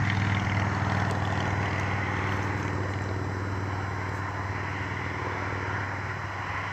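A motor vehicle engine running steadily with a low hum, slowly fading: road traffic noise in the background.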